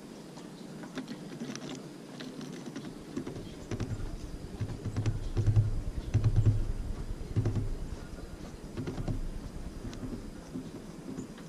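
Tits at a bird feeder make irregular sharp taps and clicks as they peck and land. Dull low thumps bunch up in the middle seconds.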